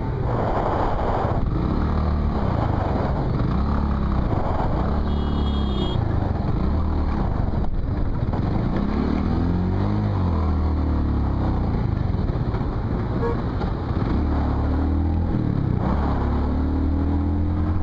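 Motorcycle engine heard from the rider's seat, its pitch climbing and dropping over and over as it accelerates, shifts and eases off in traffic. A short high tone sounds about five seconds in.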